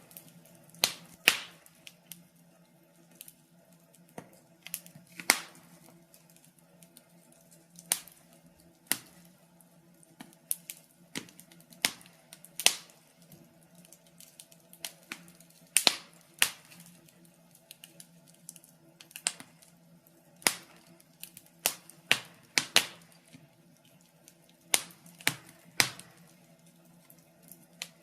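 Wood fire burning in a fireplace, crackling with irregular sharp pops and snaps, some in quick clusters, over a faint steady low hum.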